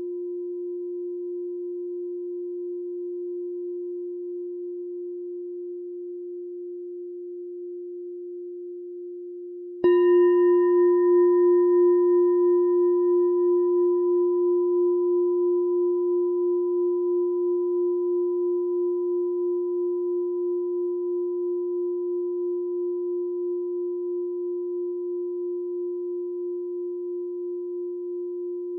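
Meditation bell struck once about ten seconds in, then left to ring: one low steady tone with faint higher overtones that die out first, wavering slowly in loudness as it fades. Before the strike, the previous stroke's ring is dying away.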